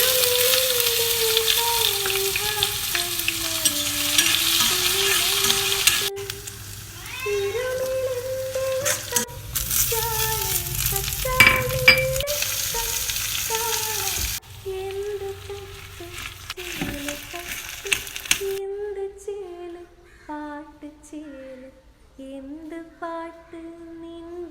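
Food sizzling and frying on a hot pan while masala dosa is cooked. The sizzle is loud for the first six seconds, comes back from about ten to fourteen seconds, then fades out about three-quarters of the way through, leaving only a tune.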